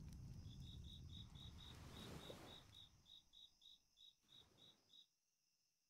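Faint cricket chirping: a regular run of short high chirps, roughly four a second, over a low rumble, all fading out about five seconds in.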